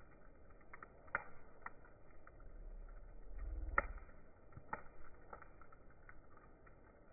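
Faint, irregular clicks and ticks, with a short low rumble a little after three seconds in.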